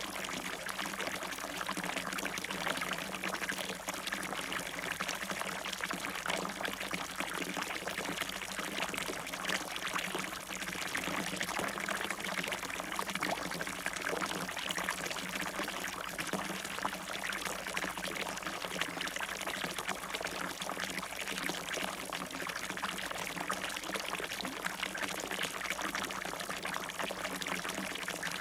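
Water in a fountain splashing and pouring, a steady, unbroken rush.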